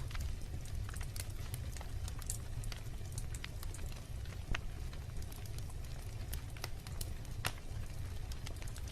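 Wood fire burning steadily: irregular crackles and pops of burning wood over a low rumble of flame, with a sharper snap about halfway through and another near the end.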